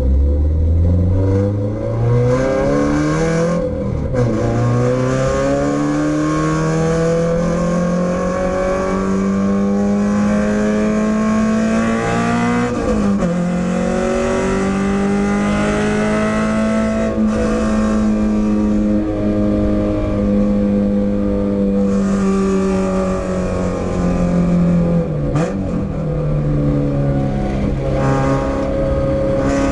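Renault Clio 172's 2.0-litre four-cylinder engine driven hard on track: the pitch climbs through the revs, drops at gear changes about four and thirteen seconds in, holds high for about ten seconds, then eases and changes again near the end.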